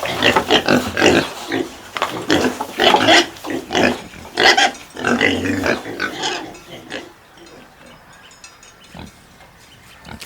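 Domestic pigs grunting and squealing: a rapid run of short calls that fades to faint after about seven seconds.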